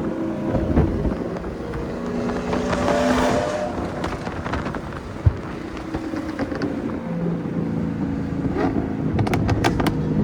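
A car engine running on the move, its pitch rising and falling with the throttle, with wind noise. There is a single sharp knock about five seconds in and a few clicks near the end.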